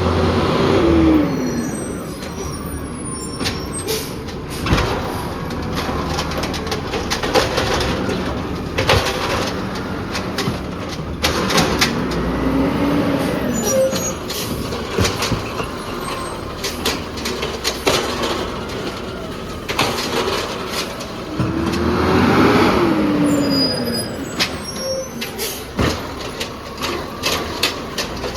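Peterbilt 320 automated side-loader garbage truck at work: the engine runs steadily and three times rises and falls in pitch for a couple of seconds, with many sharp knocks and clanks and hisses of air brakes.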